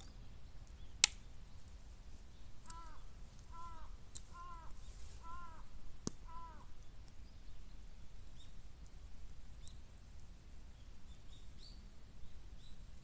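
Bamboo burning in a fire pit, giving sharp cracks: the loudest about a second in, another about six seconds in, and fainter ones between. Between the cracks a bird calls in a quick series of about eight short, harsh, arched notes.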